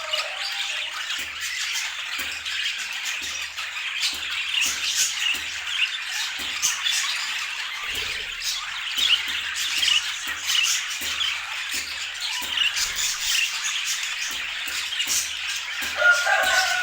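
Budgerigars chattering and squawking, a continuous stream of short, overlapping high chirps and clicks.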